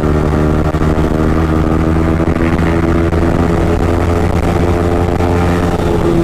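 Yamaha MT-15 motorcycle's 155 cc single-cylinder engine running at a steady speed while riding, its exhaust note holding an even pitch.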